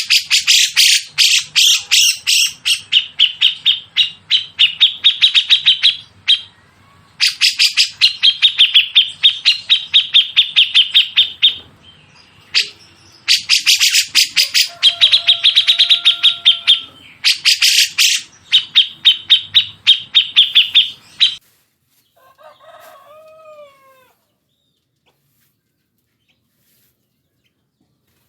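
Songbird song on a bird-song training recording: loud bursts of rapid, sharp repeated notes, about ten a second, each burst lasting a few seconds with short gaps between. A lower whistled note sounds in the middle of one burst, and the song ends about three quarters of the way through with a few lower descending calls.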